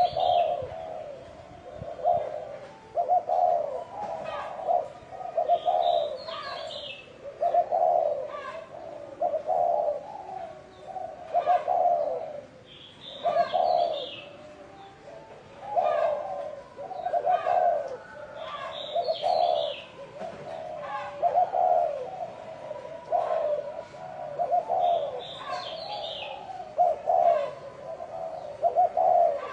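Spotted dove cooing, a male's repeated 'gáy gù' coo phrases one after another. About every six seconds a short high chirping call cuts in over the coos.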